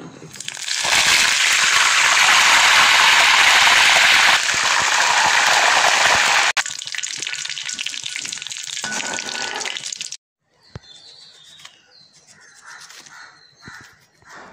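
Fresh curry leaves spluttering and crackling as they fry in hot oil in a wok, stirred with a spatula. The dense sizzle is loudest in the first few seconds, drops down a little past the middle, and cuts off suddenly about ten seconds in, leaving only faint scattered sounds.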